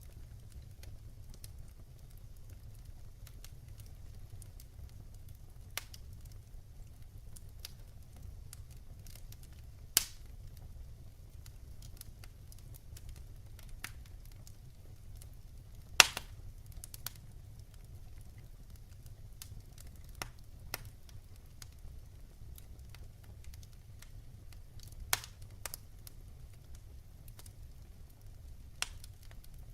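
Wood logs burning in a fireplace: scattered sharp crackles and pops over a low steady rumble, with two louder pops about ten and sixteen seconds in.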